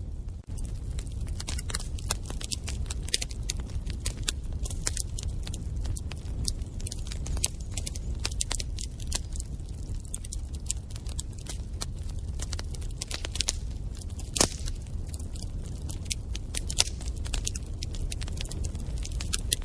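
Wood fire in a fireplace crackling, with dense irregular pops and snaps over a low steady rumble of the flames; one sharper pop stands out about two thirds of the way in.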